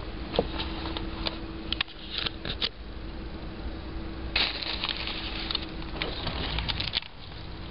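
Handling noise: rustling and clicks as the camera and a handheld plastic pager are moved about, with louder bursts of rustling about four and a half and six seconds in. A steady low hum runs underneath and fades out about six seconds in.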